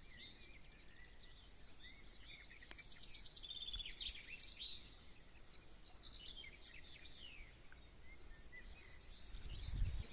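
Songbirds chirping and trilling, busiest a few seconds in, over a quiet outdoor background. A brief low rumble comes near the end.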